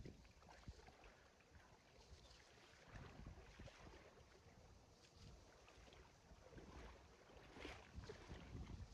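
Near silence: a faint low outdoor rumble with a few soft knocks and rustles, slightly busier near the end.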